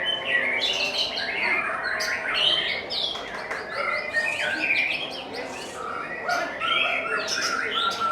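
Several songbirds singing at once: a dense, overlapping chorus of rapid chirps, trills and whistles with no pause.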